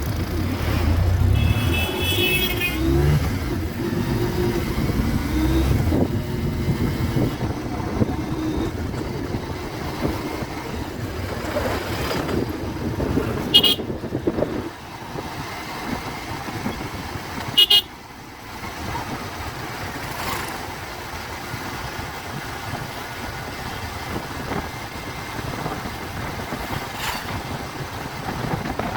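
Bajaj Pulsar 150 motorcycle's single-cylinder engine running on the ride, louder in the first half and quieter from about halfway through. A vehicle horn beeps three times: about two seconds in, then twice briefly in the middle.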